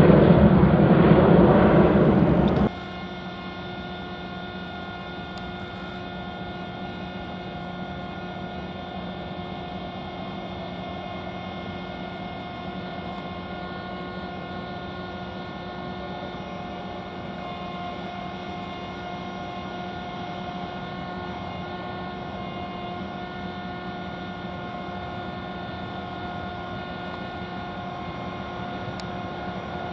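Loud aircraft engine noise that cuts off abruptly about three seconds in. It gives way to a steady, quieter hum with several constant whining tones, typical of jet aircraft engines running at idle.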